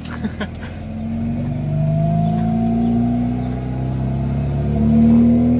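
Tofaş Doğan's engine heard from inside the cabin while driving. Its pitch climbs about a second in, eases off, then climbs again near the end as the car picks up speed.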